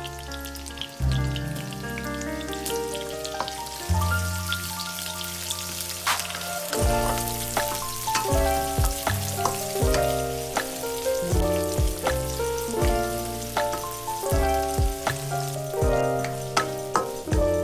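Chopped onion and garlic sizzling as they fry in oil in a pan, with the odd scrape and click of a wooden spatula stirring. Background music with a bass line plays throughout.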